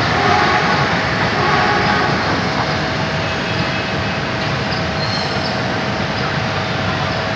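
Soekarno-Hatta airport rail link electric train running past on the station tracks and moving away, a steady rolling rail noise with a steady high whine running through it; the noise eases a little after about two seconds.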